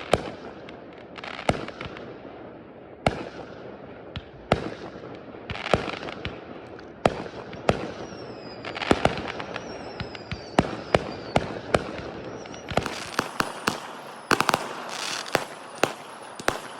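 Fireworks display going off: sharp bangs every second or so with crackling between them. Whistles slide down in pitch about eight to eleven seconds in, and the bangs come thicker and faster in the last few seconds.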